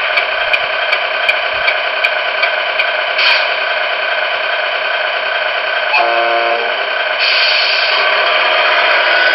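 Sound module of a Tamiya 1/14 Scania R620 RC truck playing its truck sounds: a steady simulated engine running, with one short horn blast about six seconds in.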